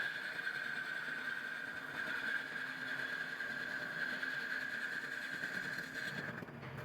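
Metal lathe running while turning a differential case, a steady mechanical hum with a constant high-pitched whine that stops near the end.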